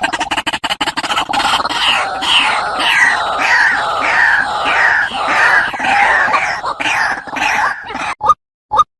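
White-breasted waterhen (ruak-ruak) calling: a fast run of short pulsed notes, then a loud series of harsh, repeated calls at about two a second, breaking up near the end into short single notes with silence between them.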